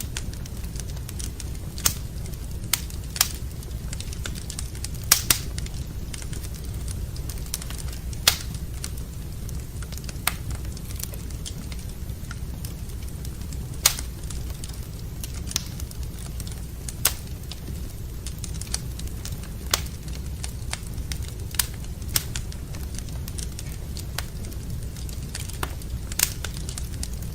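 Wood fire burning in a fireplace, crackling with irregular sharp pops every second or two over a steady low rumble.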